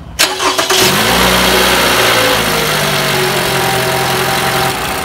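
2018 Toyota RAV4's four-cylinder engine cranked by the starter and catching about a second in, then running at idle, its speed easing down slightly near the end. This is the first start after an oil and filter change.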